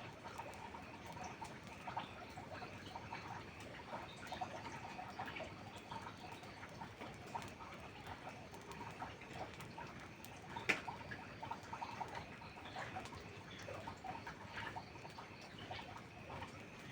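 Campfire crackling: many small ticks and pops over a soft patter of rain, with one sharper snap about eleven seconds in.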